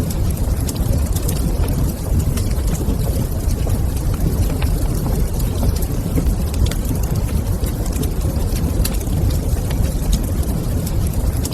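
Wood fire crackling, with many small sharp pops scattered over a steady deep rumble.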